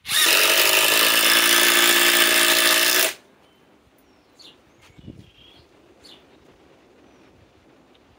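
Ryobi 2200 inch-pound 4-mode impact driver hammering a 4-inch Grip-Rite screw, a steady rattling buzz that climbs slightly in pitch at first, runs about three seconds and stops sharply as the screw seats.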